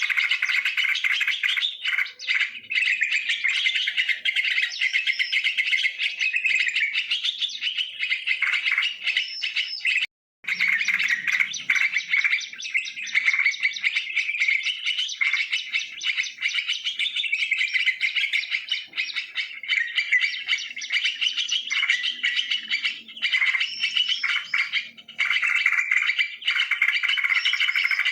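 Yellow-vented bulbuls (trucukan) chattering and calling in a dense, continuous chorus of overlapping chirps, broken by a short gap about ten seconds in.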